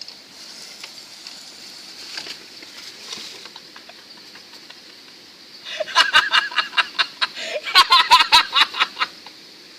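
People laughing hard in quick rhythmic bursts for about three seconds, starting about six seconds in, over a steady high insect buzz.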